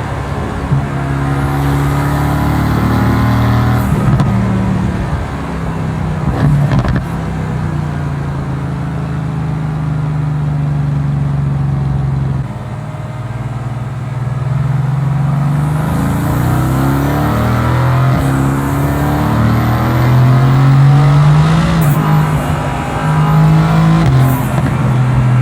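Mercedes-AMG GT S 4.0-litre twin-turbo V8 under way: the engine note falls and holds steady, drops off sharply about halfway, then climbs through the revs under acceleration, with a shift near the end and a few brief cracks.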